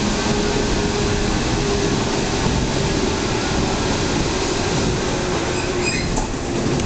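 Local passenger train running on the Hokuriku main line, heard from inside the car: a steady rumble of wheels on rail with a faint held hum, and a few brief high squeaks near the end.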